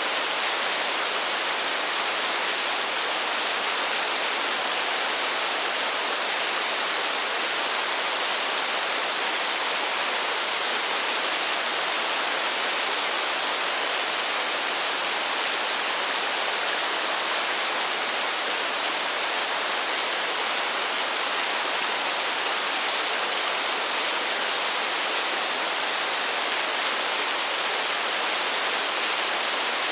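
Steady rain falling in a forest: an even, unbroken hiss with no single drops standing out.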